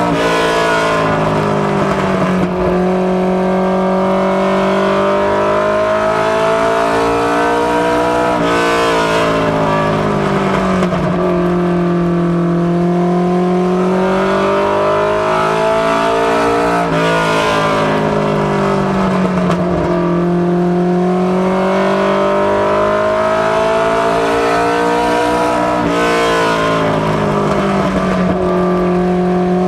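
Mustang notchback ministock race car's engine running hard around an oval. The revs climb steadily on each straight, then drop and recover in each corner, about every eight and a half seconds, four times in all.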